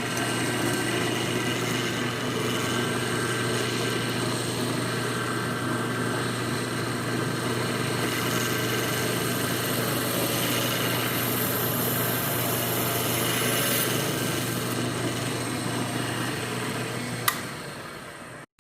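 Electric drill with a 9/64 in bit running steadily as it bores slowly through a plastic board. A click about 17 seconds in, then the motor winds down and stops.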